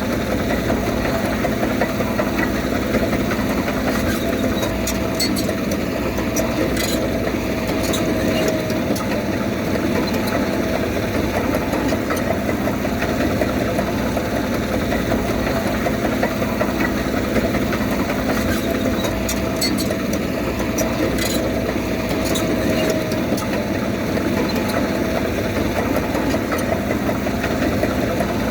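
Diesel engine of a Komatsu D31P bulldozer running steadily under work, with a few sharp clicks now and then.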